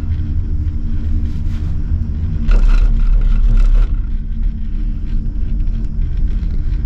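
Ride noise inside a moving gondola cabin with its window open: a steady low rumble with a faint hum, growing louder for about a second and a half near the middle.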